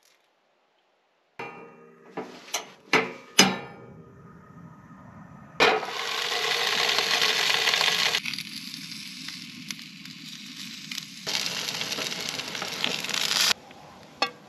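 A few sharp metal clinks and knocks, then breakfast sausage links frying in a pan on a gas stove, with a steady sizzle that breaks off abruptly at edits.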